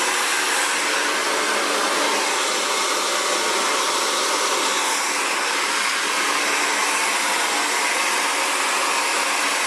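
Xtava Allure 2200-watt ionic ceramic hair dryer running steadily: a constant rush of air with a faint motor hum underneath.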